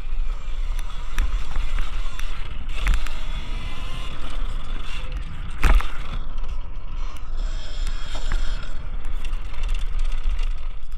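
Electric dirt bike being ridden over a dirt track, its noise mixed with heavy wind buffeting on the microphone, and a few sharp knocks, the loudest about six seconds in.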